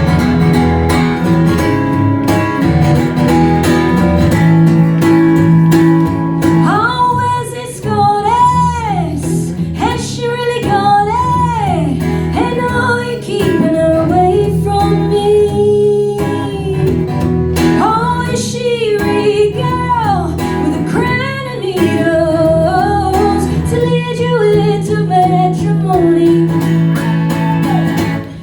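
Live song: a guitar playing alone, then a woman singing the melody over it from about six and a half seconds in.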